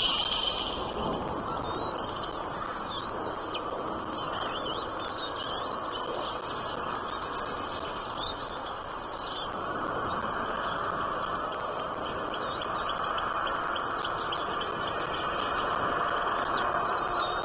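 Small birds chirping: many short, high, upward-curving notes repeated every second or so, over a steady background hiss.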